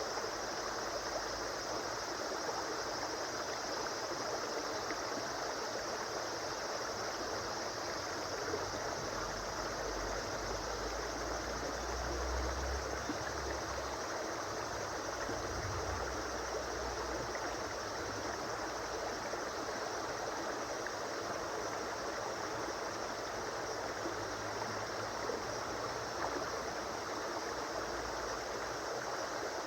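River or stream water flowing over stones, a steady rushing and babbling, with some low rumble partway through.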